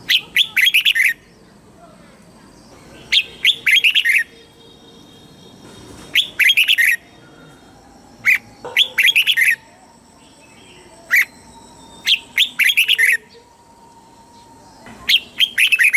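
Red-whiskered bulbul singing: short, loud phrases of quick, bright notes, one phrase about every three seconds.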